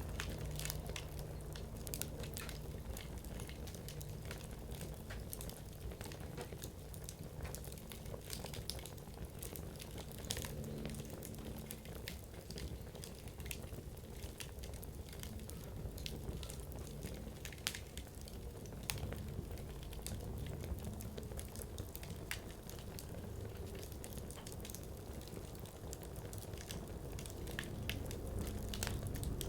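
Firewood burning in a campfire: a steady low rush of flame under frequent small crackles and pops from the wood, with a few sharper pops around the middle.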